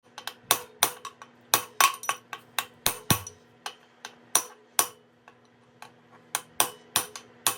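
A hammer tapping a bearing into a Lambretta Li125 engine casing: a quick run of sharp metallic taps, about two or three a second, each leaving a short ringing tone.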